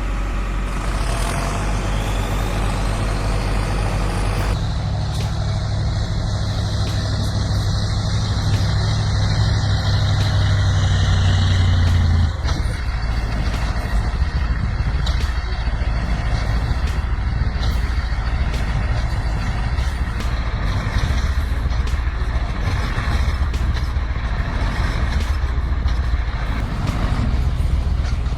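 Heavy vehicle engines running, with abrupt changes in the sound about four seconds in and again about twelve seconds in, and scattered knocks and clatter.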